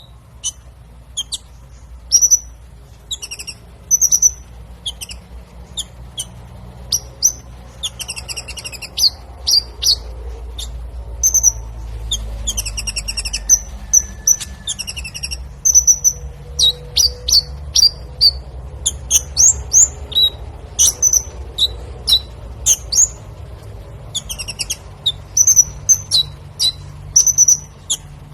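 A songbird calling: many loud, sharp chirps and quick trills, repeated at irregular intervals, over a low steady rumble.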